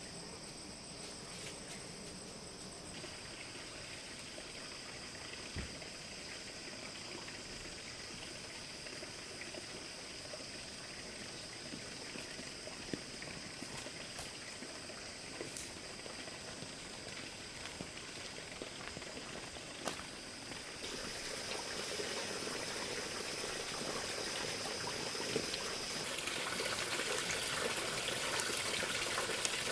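Running water trickling, with a steady high insect drone over it; the water sound grows louder about two-thirds of the way through, with a few small clicks along the way.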